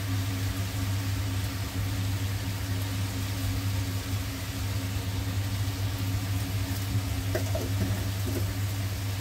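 Marinated chicken pieces sizzling steadily in hot oil in a steel kadhai, over a constant low hum.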